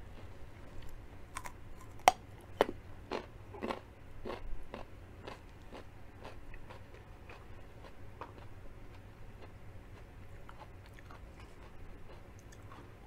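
Raw carrot sticks being bitten and chewed with crisp crunches about twice a second. The crunches are loudest about two seconds in and give way to softer, sparser chewing in the second half.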